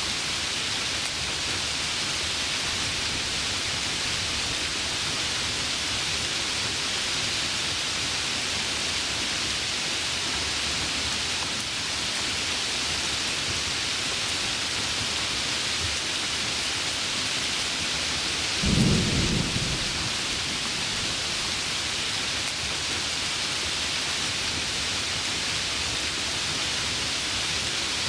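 Heavy rain falling steadily, with a single short low rumble of thunder about two-thirds of the way through.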